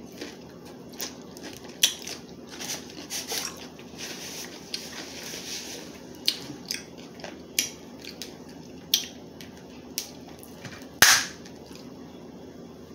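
Crab leg shells cracking and crunching as they are bitten open with the teeth. Scattered sharp cracks, the loudest one about eleven seconds in, with a softer scratchy stretch around four to six seconds.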